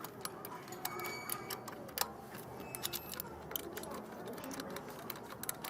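Irregular light metallic clicks and taps, with a brief ringing tone now and then, as small metal parts of an old portable electric hand planer are handled.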